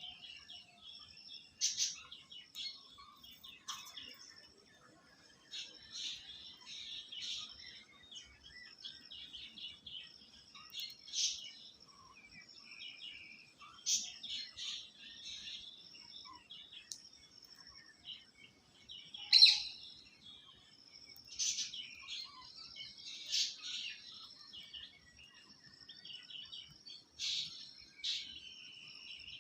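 Birds chirping: short, sharp high-pitched chirps and calls at irregular intervals, the loudest a little before the two-thirds mark, over a faint steady high whine.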